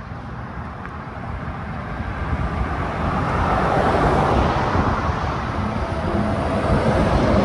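Road vehicle noise with no speech, swelling louder about two seconds in and staying up.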